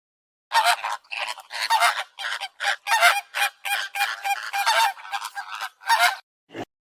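Birds giving a rapid run of short, harsh calls, about a dozen packed closely together, stopping abruptly just after six seconds in. A brief sound falling steeply in pitch follows near the end.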